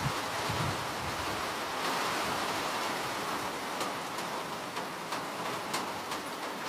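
Steady rain falling, an even hiss with a few separate drops ticking sharply in the second half. A low rumble fades out in the first second.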